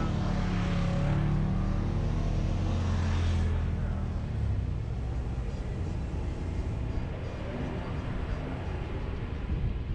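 Jeep engine running steadily at low revs, a little louder over the first four seconds and then easing off.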